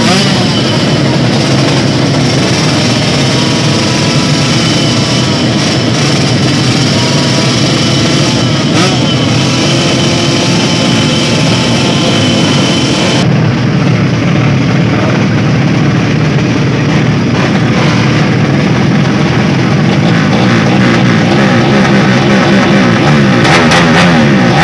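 Racing drag motorcycle engine revving hard at the start line, the throttle blipped up and down continuously and loudly, with a quick run of sharp revs near the end.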